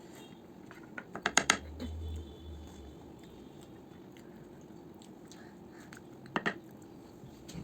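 Eating sounds at a meal: a quick run of sharp clicks and knocks about a second in, and another short pair near the end.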